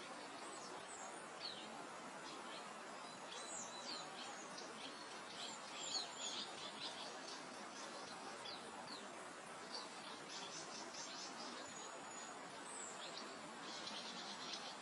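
Soft, steady wind through open grassland with small birds chirping and trilling throughout, including a quick run of rapid chirps near the end.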